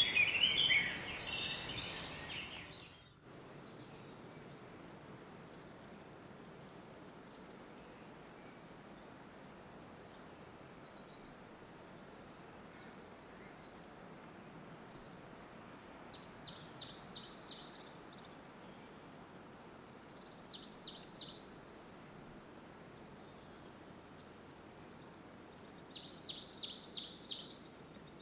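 Songbirds singing: for the first three seconds a busy chattering of chirps, then after a sudden cut one bird repeats a high, very fast trill that swells in loudness over about two seconds, three times, with short runs of quick down-slurred notes between, over a faint steady hiss.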